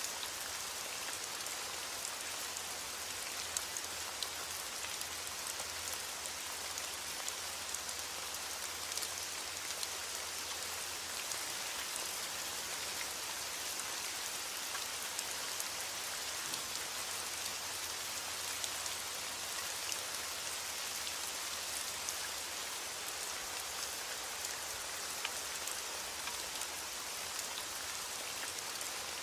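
Heavy rain falling steadily on a window, an even hiss of rain with many small sharp drop ticks throughout.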